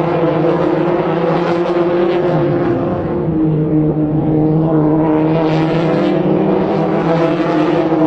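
MotoGP racing motorcycle engines running at high revs, a steady, pitched engine note that holds throughout.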